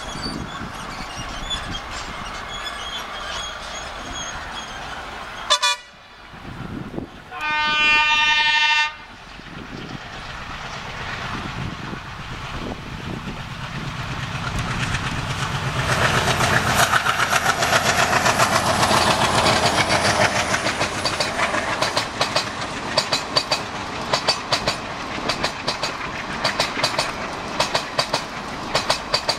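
An Indian Railways ALCO diesel locomotive horn sounds once for about a second and a half. A train then comes up and passes, its rumble building to a peak, followed by a quick, regular clickety-clack of wheels over rail joints.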